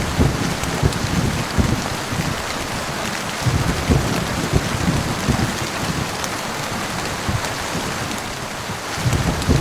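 Heavy rain falling steadily, with low rumbles of thunder swelling at the start, again about three and a half seconds in, and near the end.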